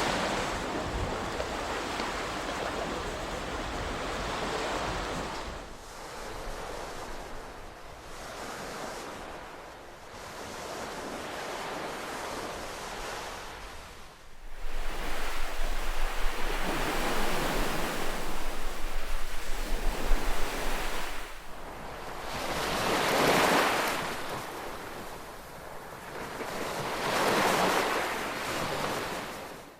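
Ocean waves breaking and washing ashore, each surge swelling and fading over a few seconds. A low rumble runs underneath for several seconds in the middle.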